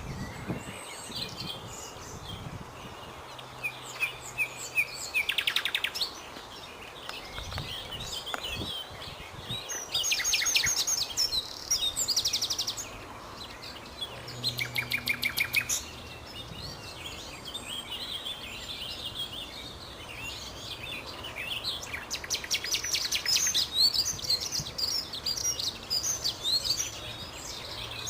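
Common nightingale singing: a run of varied phrases made of rapidly repeated notes and fast trills, broken by short pauses.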